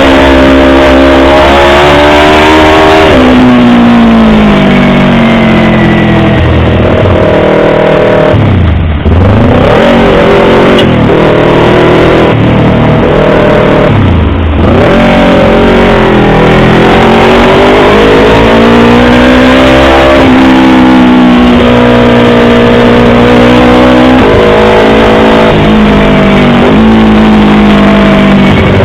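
Yamaha R25's 250 cc parallel-twin engine running loud at high revs, its pitch climbing and falling as the throttle is worked, with two sudden brief drops in pitch partway through.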